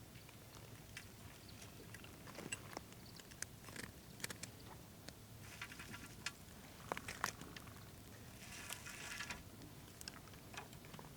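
Scattered light clicks and taps, with two short scraping rustles about six and nine seconds in.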